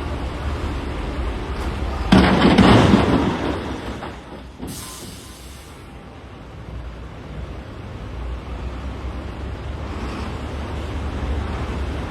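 Heavy diesel engine of a wheel loader running with a low rumble, and a loud crash of rock about two seconds in, lasting about a second and a half: a bucket load of quarry rock dropping into a dump truck's bed. A short hiss follows a couple of seconds later, then the engine note builds again.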